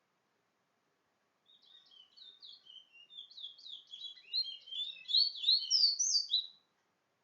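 A songbird singing a quick run of short, high, down-slurred whistled notes. The song starts about a second and a half in, grows steadily louder and faster, and breaks off shortly before the end.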